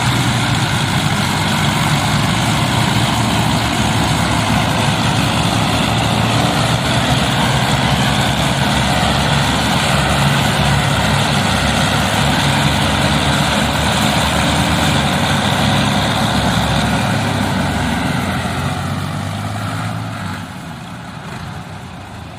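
Tractor diesel engine running steadily at high power, working under the heavy load of a loaded sugarcane trolley, then fading away over the last few seconds.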